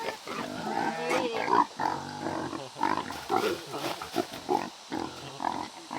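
Animal calls: a run of short, pitched grunts and squeals that bend up and down in pitch.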